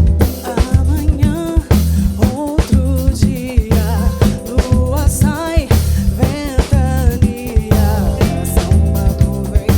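Band playing a samba-funk groove, with drum kit and electric bass keeping a steady beat under a woman singing a melody with vibrato.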